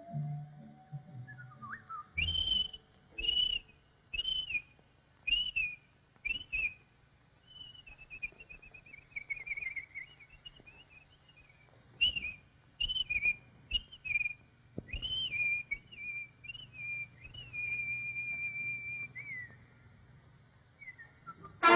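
Cartoon soundtrack whistling: a run of short, clipped whistled notes, then a longer warbling phrase, more short notes, and finally a long held note that drops away.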